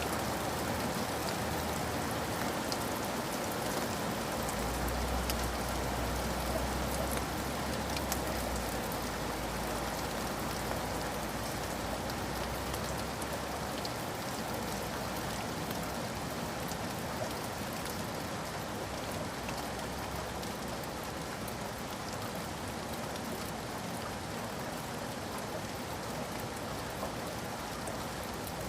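Steady rain falling, an even hiss with scattered drop ticks, and a low rumble underneath for a few seconds about five seconds in.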